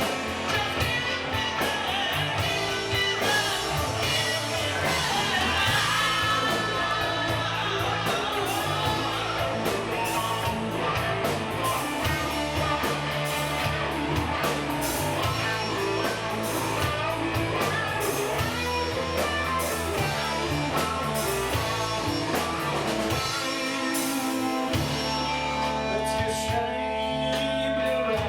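Live rock-and-roll band playing, with singing and guitars over a steady beat; near the end a sustained guitar chord rings out.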